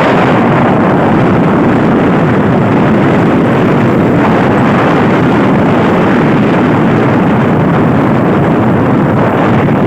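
Motorcycle riding along at speed: a loud, steady rush of wind and road noise on the microphone.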